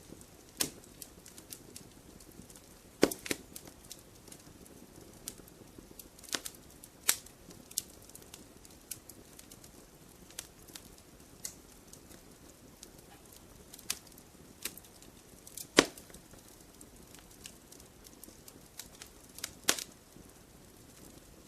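Wood fire in a fireplace crackling: irregular sharp pops and snaps over a soft steady hiss, with a few louder pops, the loudest about three-quarters of the way through.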